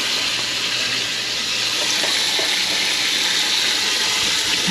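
Water running steadily from a tap into a sink, filling it to soak potatoes.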